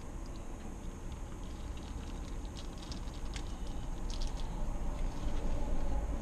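Close-up chewing of a mouthful of battered fried shrimp, with scattered small crunches and clicks from the crisp coating.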